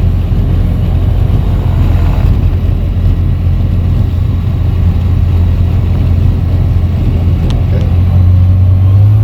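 Light aircraft engine running steadily with a strong low hum, rising a little in pitch and loudness near the end as the throttle opens.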